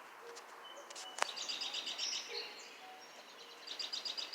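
A songbird singing quick trains of high chirps, twice, over a faint steady hiss of the outdoors. There is a single sharp click about a second in.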